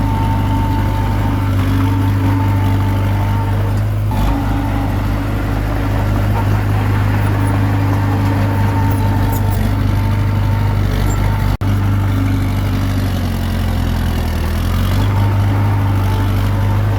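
Komatsu D21P bulldozer's diesel engine running steadily under load. The engine note sags briefly and picks back up about two thirds of the way through.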